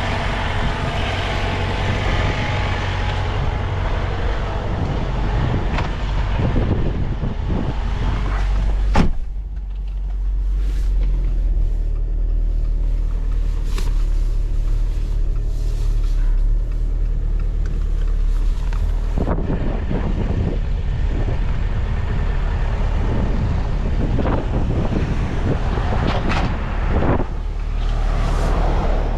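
Semi-truck driving, heard from inside the cab: a steady low engine hum under road and tyre noise. A sharp click about nine seconds in, after which the higher hiss stays quieter for about ten seconds.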